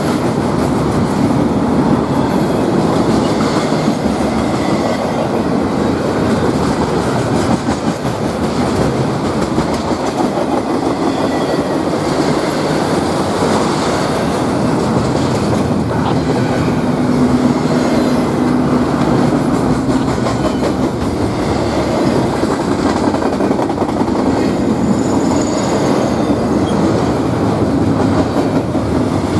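A train rolling past close by: steady, loud noise of steel wheels running on the rails.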